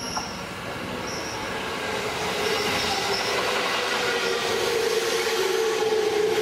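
JR 205 series 5000-number electric train pulling into the station, its rumble growing louder, with a steady whine from the wheels and running gear.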